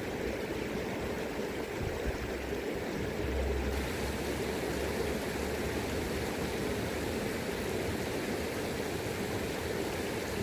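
River water rushing steadily over its bed, with an uneven low rumble of wind on the microphone that swells briefly a few seconds in.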